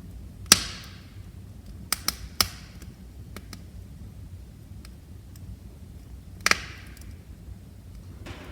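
Wood fire crackling: sharp pops and snaps from the burning logs over a low steady rush of the flames, with a loud pop about half a second in, a quick run of three around two seconds, and another loud pop about six and a half seconds in.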